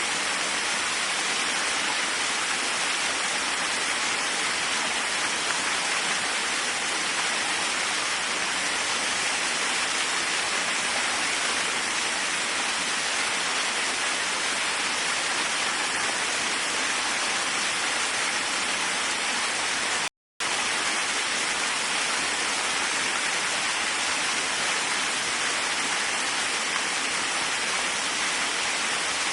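Waterfall: a steady, even rush of falling water, cut to silence for a fraction of a second about twenty seconds in.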